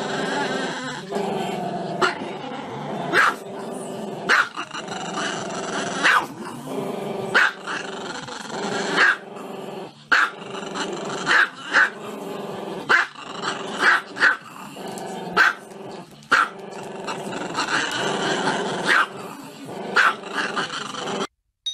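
Small dog barking sharply about once a second, with a continuous drawn-out vocalizing between the barks; it breaks off abruptly just before the end.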